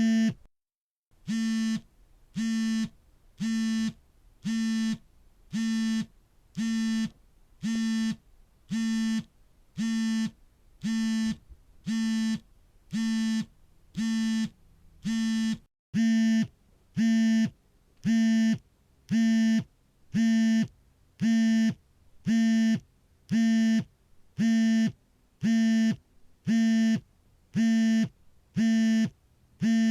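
Smartphone vibrating for an incoming call: a steady buzz about half a second long, repeating about once a second. Near the start and about halfway through the buzzing drops out for a moment.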